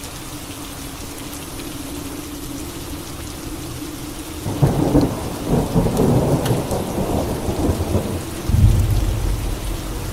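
Steady rain falling, then about four and a half seconds in a thunderclap crackles and rolls for several seconds, followed by a deep low rumble of thunder near the end.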